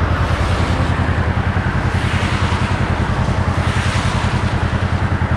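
Kawasaki KRX 4 side-by-side's parallel-twin engine running steadily at cruising speed, a low pulsing drone, with wind and tyre noise.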